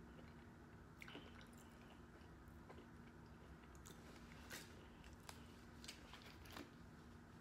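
Faint chewing of a taco, with a few soft, sharp mouth clicks scattered through, over a low steady hum.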